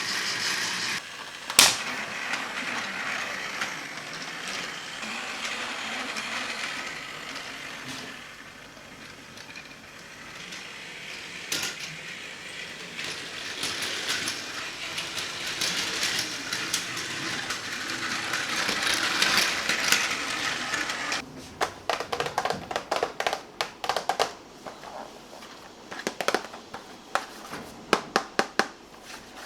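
Battery-powered Plarail toy train running on plastic track: a motor whir that swells and fades as it goes round. After about twenty seconds it gives way to a string of sharp plastic clicks and taps.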